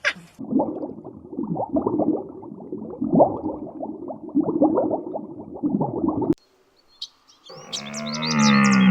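A run of repeated low animal calls for about six seconds. It stops abruptly, and after a short pause a different animal gives a deep, drawn-out call that grows louder near the end, with bird chirps above it.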